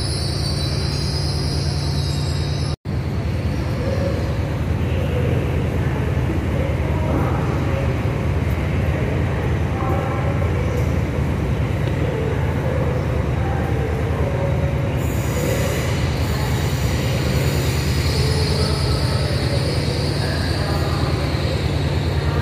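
A passenger train's steel wheels squealing on the rails for the first few seconds, then a steady low rumble of the train moving, with a faint squeal coming back near the end. The sound cuts out for an instant about three seconds in.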